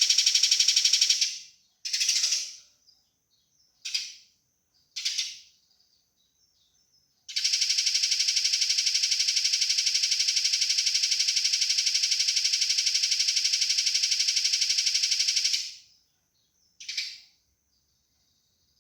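Eurasian tree sparrow giving its fighting call: a fast, dense, buzzy rattle. It comes as a long run that stops about a second in, three short bursts, a long run of about eight seconds, and one last short burst, with silence between.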